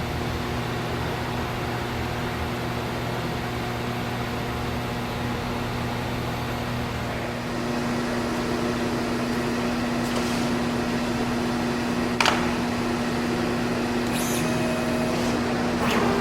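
Stepcraft Q408 CNC router machinery running with a steady electric hum that shifts slightly about halfway through. There is a sharp click about twelve seconds in and a few more near the end.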